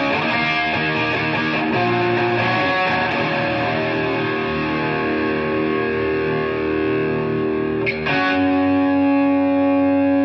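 Donner DST-100 S-type electric guitar played through a distorted amp: sustained ringing chords, with a fresh chord struck about eight seconds in and left to ring.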